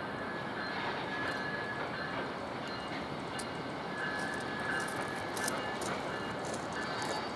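Train rolling along the rails: a steady rolling noise with a faint high-pitched tone coming and going and a few sharp ticks in the second half.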